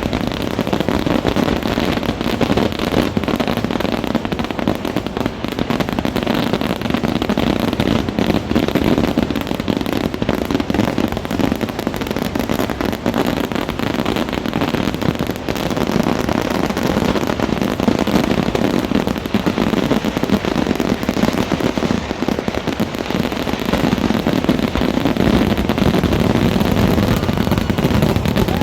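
Fireworks going off in a dense, unbroken barrage, many bangs and crackles overlapping with no pause.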